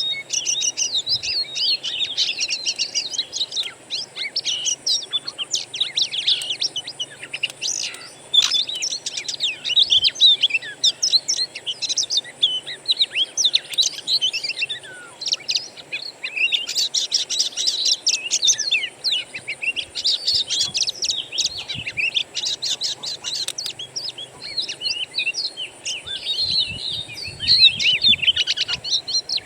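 Songbird song: a dense, unbroken run of fast, varied chirps, whistles and trills, played as a training recording to get a caged oriental magpie-robin to sing. A faint steady high hiss lies underneath.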